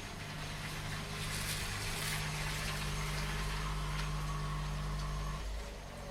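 Steady rain with a car passing on the wet road: its tyre hiss swells and fades in the first few seconds. Under it runs a low engine hum that drops away near the end.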